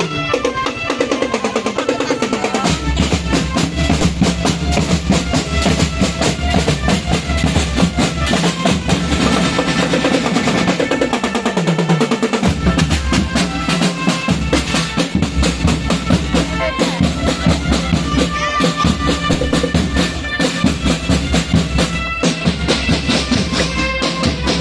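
Marching band playing, with snare drums rolling and bass drums beating under held melodic notes.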